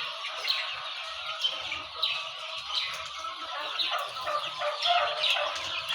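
A large flock of chickens in a poultry house: many overlapping chirps, peeps and clucks at once, a continuous din.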